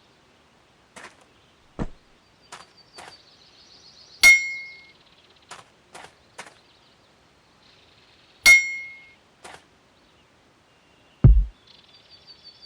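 Metal being struck: a few light sharp clicks and two loud clangs about four seconds apart, each ringing briefly before it dies away, then a heavy low thump near the end.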